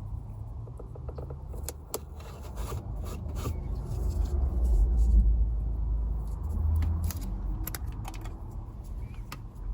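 Small clicks, taps and rubbing from the plastic instrument-cluster housing and felt tape being handled, over a low rumble that swells in the middle and fades again.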